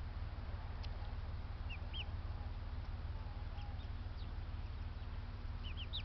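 Birds giving short, high chirps now and then, mostly in pairs, with a cluster near the end. A steady low rumble runs underneath.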